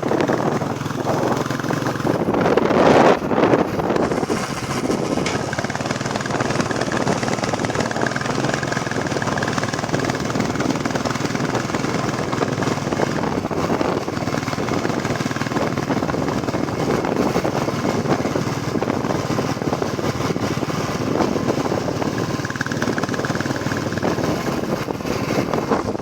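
Royal Enfield Classic 350 single-cylinder engine running while riding, with wind noise on the microphone; it gets louder for a moment about two to four seconds in.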